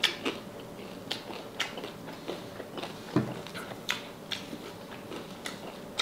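Close-up crunching and open-mouthed chewing of a deep-fried salted pork knuckle, with irregular sharp crackles several times a second and one dull thump about three seconds in.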